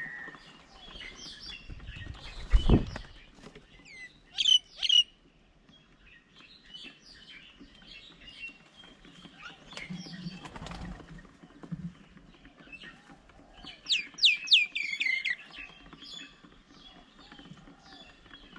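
Several wild birds chirping and calling, with a single low thump about three seconds in, two loud sharp calls about five seconds in, and a quick run of falling notes about three-quarters of the way through.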